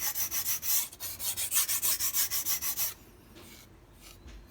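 MAC chef's knife blade stroked quickly back and forth on a whetstone, about five scraping strokes a second, stopping about three seconds in. The strokes are raising a burr along the edge.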